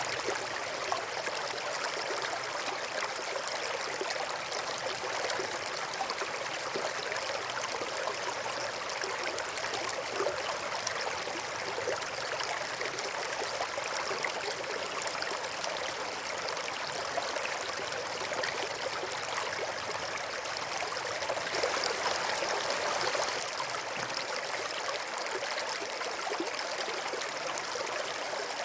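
A small stream of running water babbling steadily, swelling slightly a little past two-thirds of the way through.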